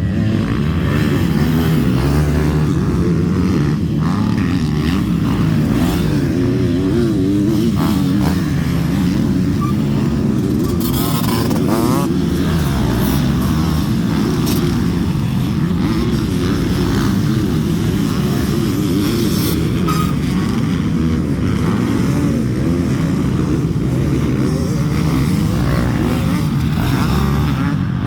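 Several motocross bikes' engines running at once, their revs rising and falling and overlapping as they ride the track.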